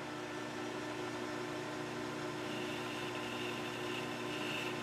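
Metal lathe running steadily, its motor and spindle giving a constant hum. About halfway through, a faint high whine joins in as the cutting tool chamfers the inside edge of the steel part, and it fades near the end.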